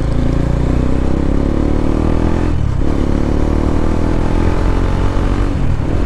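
Bajaj Dominar 400's single-cylinder engine pulling hard through its stock dual exhaust, the note climbing in pitch. It breaks briefly about two and a half seconds in and again near the end, then climbs again.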